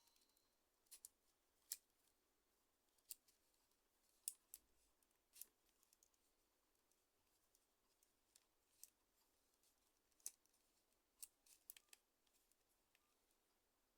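Faint, irregular small clicks and ticks, spaced a fraction of a second to a second or so apart, from a Nokia N95 8GB mobile phone and small parts being handled during repair.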